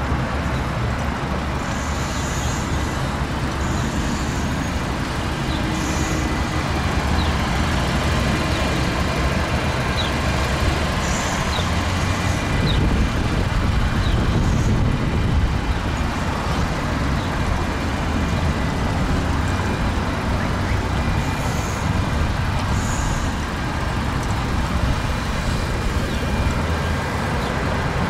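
Steady rumble of road traffic and motor vehicles, with a few faint short high chirps scattered through it.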